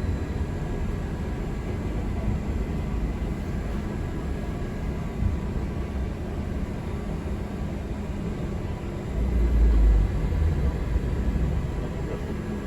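Cabin noise inside a city bus riding through traffic: a steady low rumble from the drive and the road. The rumble swells briefly about nine seconds in.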